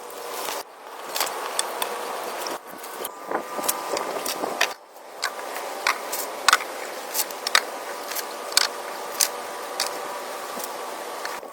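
Irregular sharp knocks and clicks, a dozen or so, over a steady background hum. The sound breaks off abruptly a few times.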